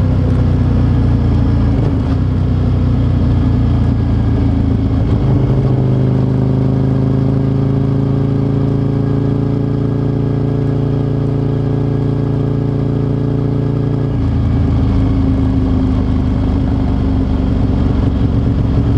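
Aprilia RSV Mille's 998 cc V-twin engine running, picked up from under the seat: the pitch drops off early on, holds steady for several seconds, then changes to a lower, rougher note about 14 seconds in.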